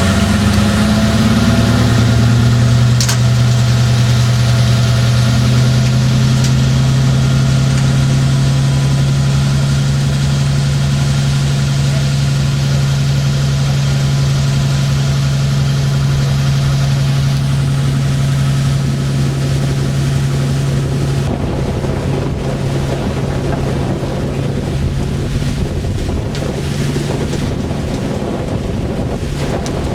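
Fishing boat's engine running with a steady low hum, with wind on the microphone and sea noise. The engine hum fades about two-thirds of the way through, leaving mostly wind and water noise.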